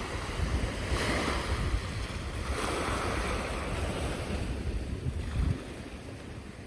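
Sea waves washing in, swelling twice, with wind rumbling on the microphone.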